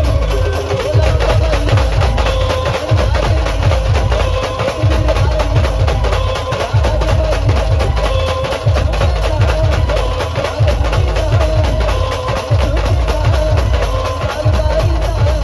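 Maharashtrian brass band playing a tune: held brass melody over a loud, driving drum beat.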